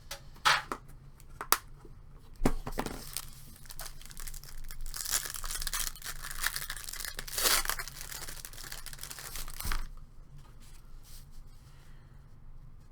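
Wrapper of a pack of hockey trading cards being torn open and crinkled, with a few sharp clicks in the first two seconds. The rustling fades to quieter card handling after about ten seconds.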